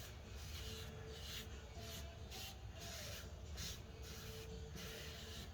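Faint hand-wiping strokes of a paper towel on a clutch pressure plate: short rubbing swishes, roughly one a second, with short pauses between them.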